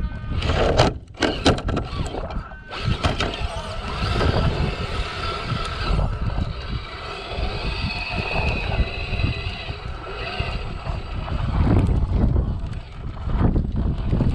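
Traxxas TRX-4 RC crawler's electric motor and gears whining faintly while it crawls, with heavy wind rumble on the action-camera microphone.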